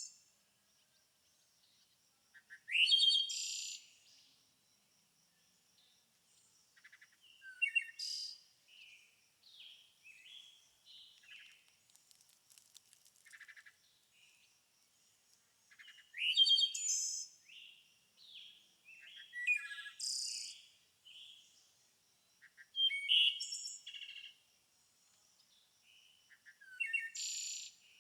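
Songbirds singing: a loud, roughly one-second song phrase comes every four or five seconds, several of them opening with a rising sweep, with quieter chirps and twitters in between. A faint steady high tone runs underneath.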